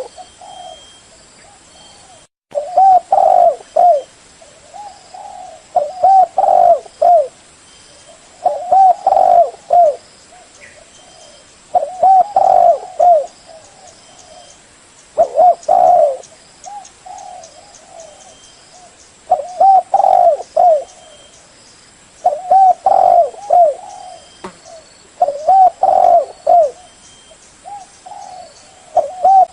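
Spotted dove cooing: a short phrase of several quick, arching coos, repeated about every three seconds.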